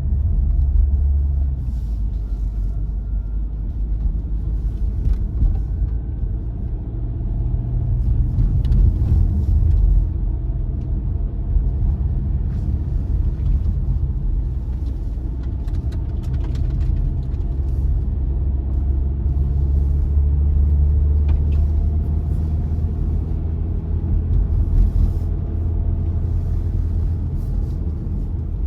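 Car driving on a winter road: a steady low rumble of engine and tyres, with the engine note rising and falling gently and a few faint clicks.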